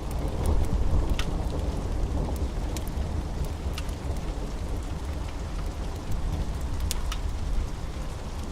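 Steady rain over a low rumble, with the sharp, irregular pops and snaps of a crackling wood fire scattered through it.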